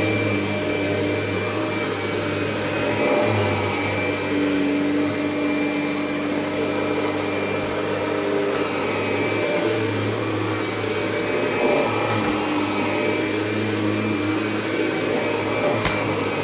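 Kirby Generation 3 upright vacuum running steadily, with a low hum and a thin high whine; its brush-roll belt is worn and due for replacement.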